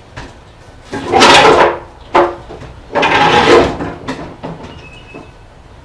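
Two long scraping, sliding sounds of hard parts being moved, each lasting about a second, with a sharp click between them.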